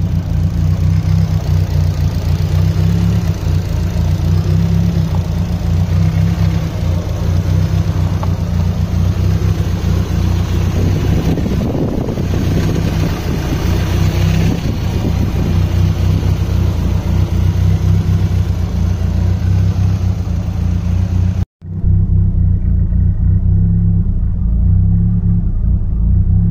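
Nissan SR20DET turbocharged 2.0-litre four-cylinder idling steadily, heard up close in the open engine bay. After a short break about 21 seconds in, it is heard from inside the cabin, still idling, more muffled.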